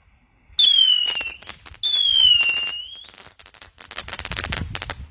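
Two Blackboxx Blizzard whistling-crackling mini rockets going off: two whistles falling in pitch, about a second apart, then a long run of rapid crackling.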